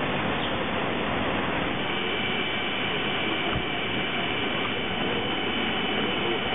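Steady, dense vehicle travel noise, an even rumbling roar with no break, joined about two seconds in by two faint steady high tones.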